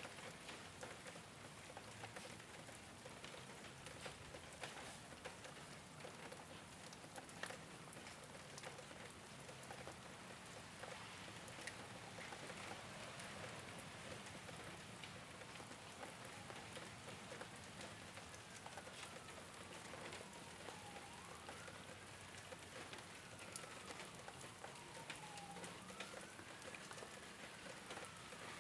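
Steady rain falling on a rooftop, with many separate drops tapping. In the second half a faint tone glides slowly up and down, several times.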